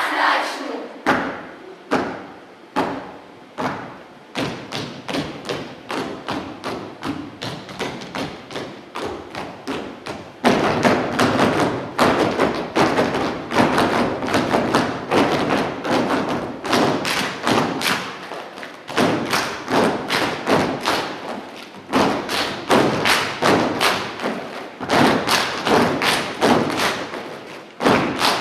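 Rhythmic stamping of dancers' feet, a quick run of sharp thuds several to the second. It grows louder and denser about ten seconds in and breaks off briefly a few times.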